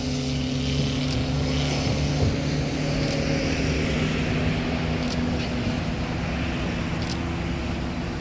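Steady vehicle noise: a motor hum with a road-traffic rush, with a faint sharp click about every two seconds.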